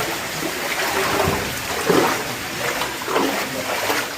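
Water running in a cave stream, a steady rushing with a few irregular splashes.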